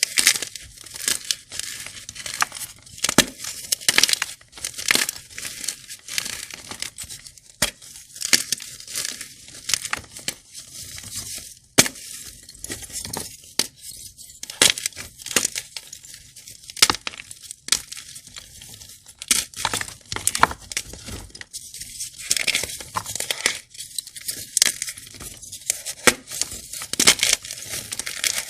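Crunchy blocks being crushed and crumbling, with irregular crisp crackles and sharp snaps over a gritty hiss.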